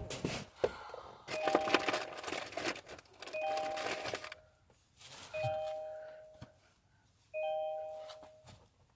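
A car's warning chime dinging four times, about two seconds apart, each ding fading away. Rustling and clattering of things being handled runs through the first half.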